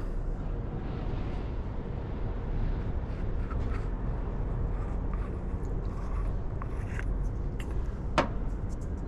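Small plastic-and-metal clicks and taps of suspension-fork volume spacers being handled and removed from the air spring, over a steady background noise, with one sharp click about eight seconds in.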